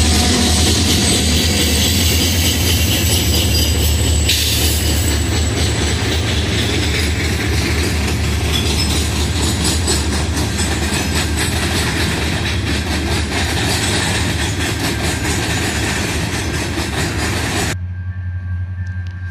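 Freight train passing close by: the diesel locomotives' engines run with a steady low drone, and from about four seconds in the rolling cars add loud wheel-on-rail noise with rapid clicking clatter. Near the end the sound cuts off abruptly to a quieter, more distant train rumble.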